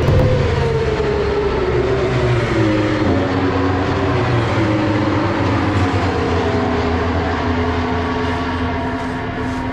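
Racing motorcycle engine running, its pitch slowly sinking over the first six seconds and then holding steady.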